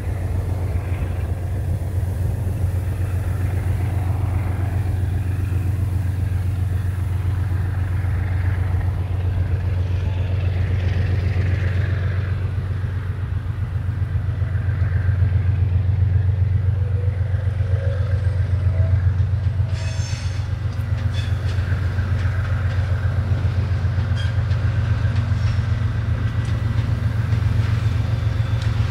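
GE diesel locomotives hauling a freight train: a steady low engine drone, with a brief run of clicks about two-thirds of the way through.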